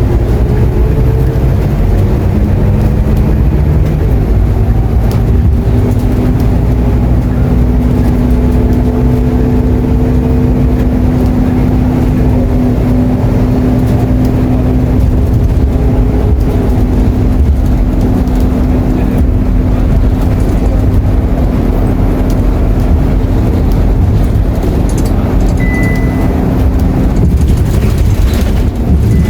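Scania K230UB Euro IV city bus under way, heard from inside the cabin: a steady low engine drone with a whine that climbs slowly in the first several seconds. A short high beep sounds near the end.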